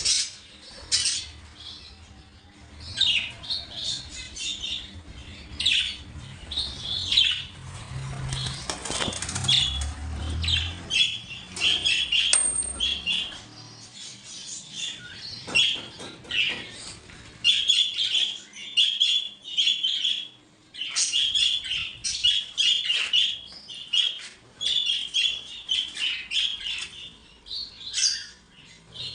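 A flock of caged pet birds chirping and calling over and over in quick short notes, with wing flapping among them.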